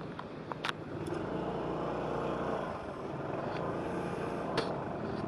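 Motorcycle engine running steadily while riding, over road noise, with a couple of short clicks.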